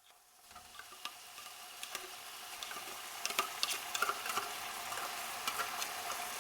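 A pan of sauce sizzling on the stove while it is stirred, with light utensil clicks and scrapes against the pan. It fades in about half a second in and grows louder over the first few seconds.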